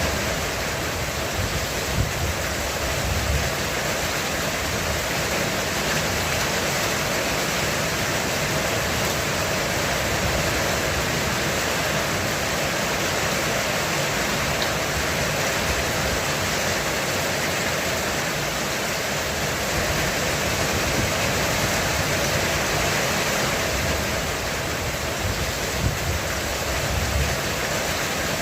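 Heavy rain falling steadily on a roof, an even hiss without let-up. A low rumble of thunder swells twice, a couple of seconds in and again near the end.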